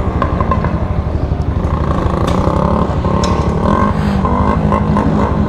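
Several motorcycle engines running close by, with occasional revs, and a couple of sharp clicks in the middle.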